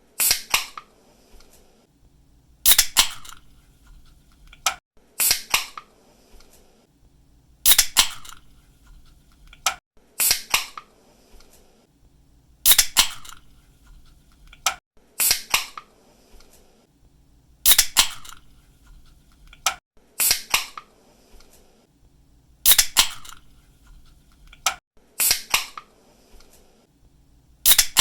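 Aluminium soda or energy-drink can popped open by its pull tab, a sharp crack followed by a short hiss of escaping gas, repeated about every two and a half seconds.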